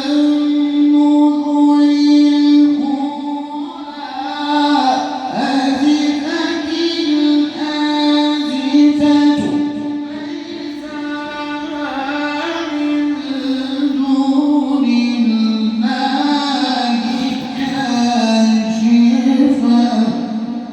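A man's voice chanting Quran recitation in the drawn-out mujawwad style. He holds a long steady note, then moves through melodic ornaments and slides gradually lower near the end.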